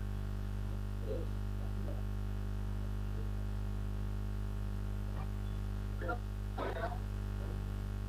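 Steady electrical mains hum on the microphone line. A few faint, short voice-like sounds come through about a second in and again around six to seven seconds.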